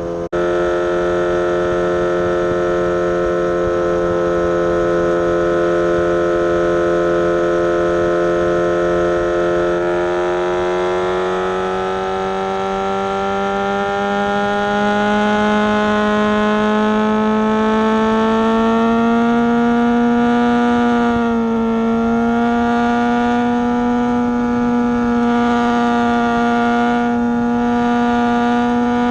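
Suzuki GSX-S750 inline-four engine with a Coffman's exhaust, running at a steady cruise under way. The engine note climbs slowly as the bike gathers speed, with a brief dip about three-quarters of the way through.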